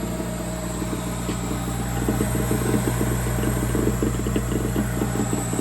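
Home furnace starting up and running after a drain-line repair: a steady mechanical hum, with a rapid fluttering rumble that sets in about two seconds in.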